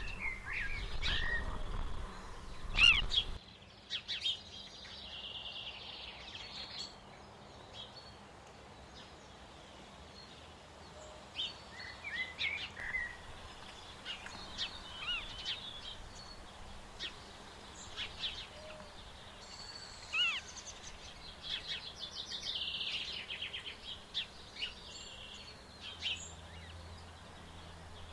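Small birds calling and chirping in short scattered notes, with a quick trill a little past twenty seconds. A low rumbling noise under the first few seconds cuts off abruptly.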